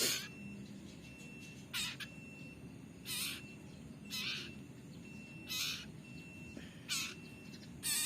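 Common iora nestling giving short, harsh, rasping begging calls, about seven in a row roughly a second apart, while it is being hand-fed.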